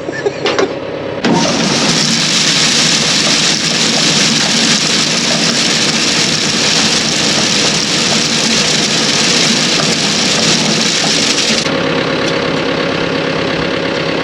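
An engine running steadily, with a loud, even hissing rush over it that starts about a second in and cuts off suddenly near the end.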